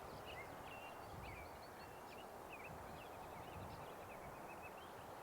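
Small birds chirping faintly: many short, quick notes from several birds, over a steady low outdoor background noise.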